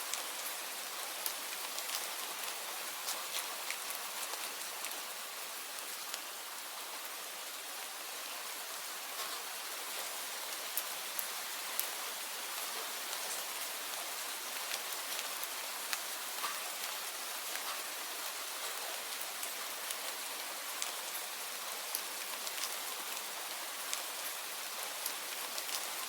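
Steady rain falling, an even hiss with many small, crisp drop ticks scattered through it.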